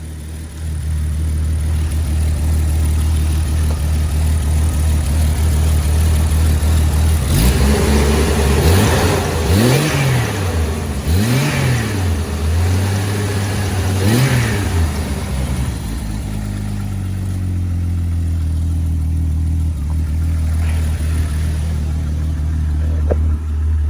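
Jeep's engine running at a steady idle, revved up and back down three times around the middle.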